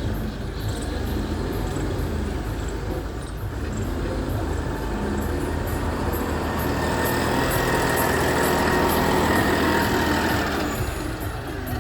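Loader's diesel engine running under load, steady at first, working louder for a few seconds from about halfway through, then easing off near the end.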